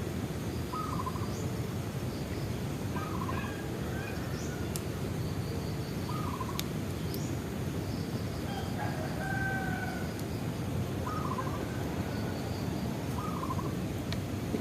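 Bonfire burning with a steady low rumble and a few sharp pops, while a bird calls in short warbling notes every few seconds.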